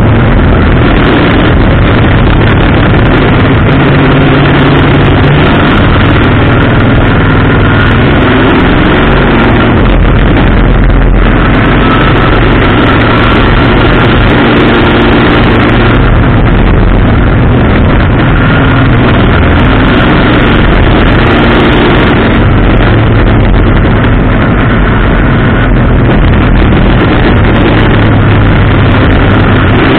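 Race car engine running hard at racing speed, heard from a hood-mounted camera. It is loud and continuous, with the engine note rising and falling through the corners and straights of the oval, and wind and road noise mixed in.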